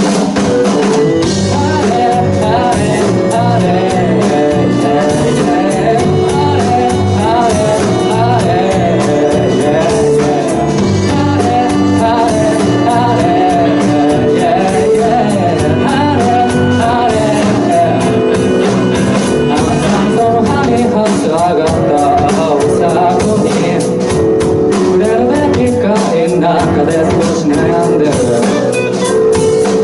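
Live keyboard playing with a voice singing a melody over it.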